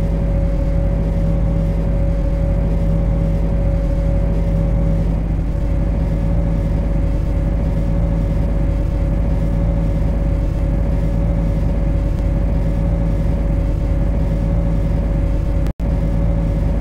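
MTR C-Train electric multiple unit giving a steady low rumble with a constant electrical hum. It cuts out for an instant near the end.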